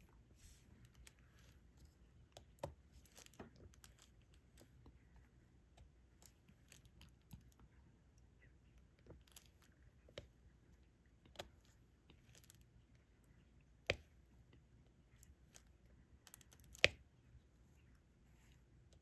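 Faint, irregular clicks and taps of diamond-painting work: a drill pen picking up resin drills and pressing them onto the canvas. Two sharper clicks stand out, one about two-thirds of the way through and one near the end.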